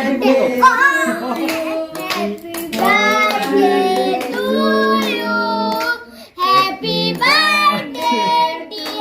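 A child singing a song, with long held notes.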